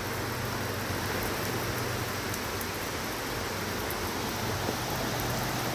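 Steady rain falling at night, an even hiss with faint scattered drop ticks.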